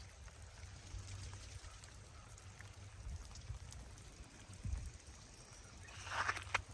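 Faint steady hiss with a low rumble, then near the end footsteps begin crunching on icy snow.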